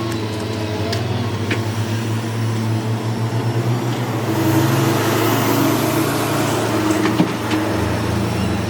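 Diesel engine of a Hyundai 210W wheeled excavator running steadily. It works harder for a couple of seconds in the middle, then settles to a lower pitch near the end. A few light knocks come through over it.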